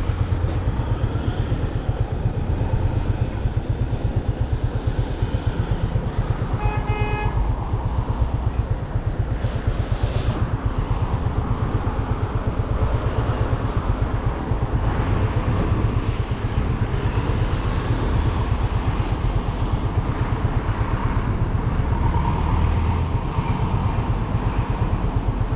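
Yamaha FZ25's single-cylinder engine running steadily on the move, with wind rushing over the helmet-mounted microphone. A vehicle horn toots once briefly about seven seconds in.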